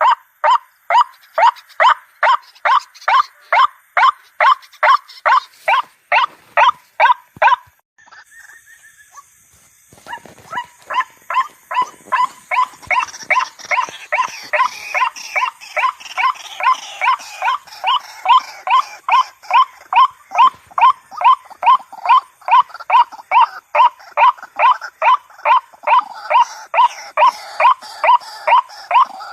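White-breasted waterhen (ruak-ruak) calling over and over, a harsh note repeated about two to three times a second. The calling breaks off for about two seconds near the eight-second mark, then resumes with more background noise beneath it.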